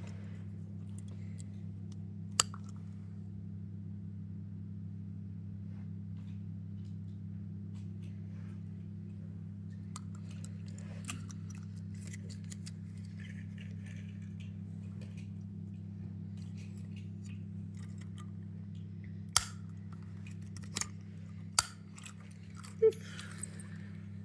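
Small plastic toys being handled, with a few sharp clicks and knocks: one a couple of seconds in and several close together near the end. Faint rustling runs through the middle, over a steady low hum.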